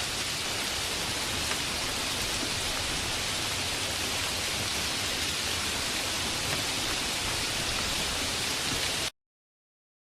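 Steady heavy rain, an even hiss with no thunder, which cuts off abruptly to silence about nine seconds in.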